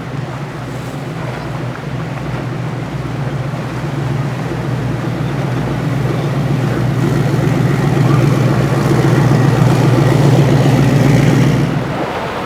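Motor yacht's engines running as it passes close by: a steady low drone that grows louder, then drops suddenly near the end.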